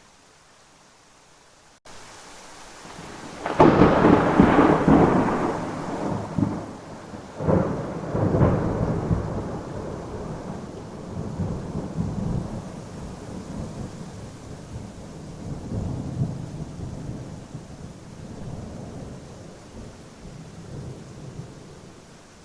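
Thunderstorm: a loud thunderclap about three and a half seconds in, two more cracks a few seconds later, then rolling rumbles that swell and fade, over a steady hiss of rain.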